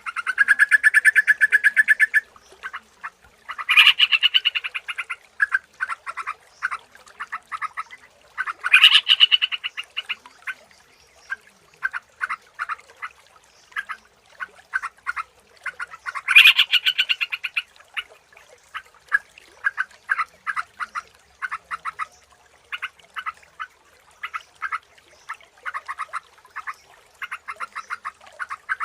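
Yellow-vented bulbul (trucukan) singing: loud bubbly, warbling phrases come every few seconds, and quick runs of short chattering notes fill the gaps between them.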